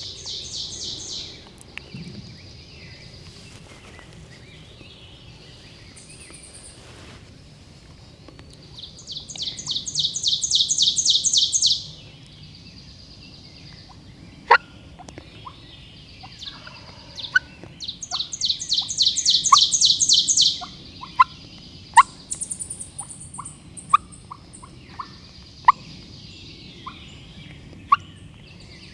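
Wild turkey gobblers gobbling twice, each a long, fast rattling series, with softer bird calls and scattered sharp chips in between.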